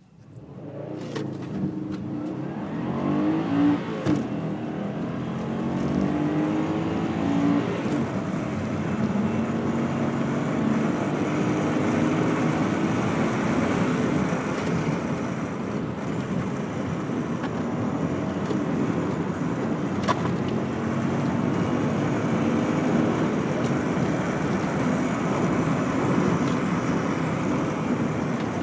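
A 1999 Subaru Impreza 2.0 Turbo's turbocharged flat-four engine accelerating hard. Its pitch rises twice in the first several seconds with a break at each gear change, and the engine then runs on loud and steady at speed, with road noise under it.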